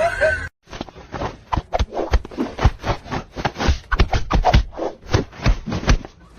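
A rapid, irregular series of short scratching sounds, several a second.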